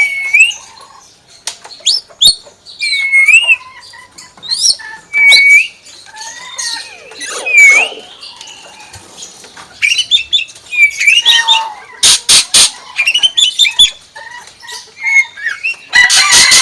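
Hill myna calling in a string of short whistles, squawks and sharp calls, each phrase a quick rising or falling note, with several loud harsh, noisy squawks about twelve seconds in and again near the end.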